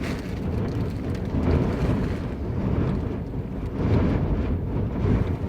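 Gale-force wind buffeting the microphone: a loud, gusty low rumble that swells and eases every second or so.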